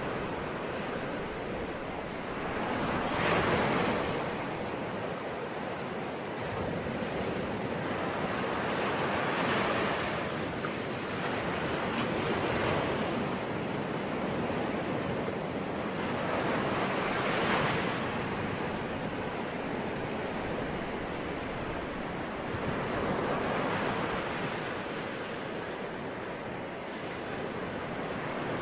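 Ocean waves breaking on a shore: a continuous rush of surf that swells as each wave comes in, about every five seconds, then eases back.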